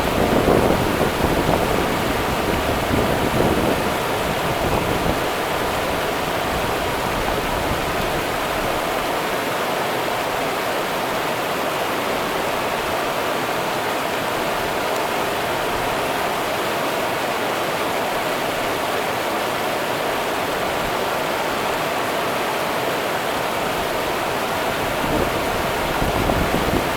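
Rio Grande river water running in a steady rushing hiss, with louder low rumbling surges in the first few seconds and again near the end.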